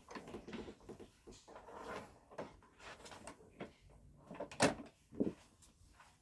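Scattered light knocks, clicks and rustling of handling in a small room, with two louder knocks about four and a half and five seconds in; no vacuum motor running.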